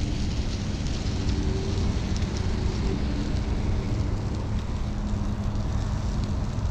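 Steady low rumble of wind on a chest-mounted action camera's microphone during a bike ride, mixed with road traffic, with a faint steady hum underneath.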